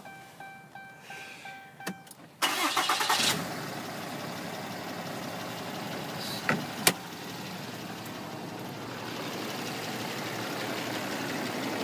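A repeating electronic dash chime, then about two and a half seconds in the 2012 Ram 2500's 6.7-litre Cummins inline-six turbo-diesel cranks for about a second, fires and settles into a steady idle.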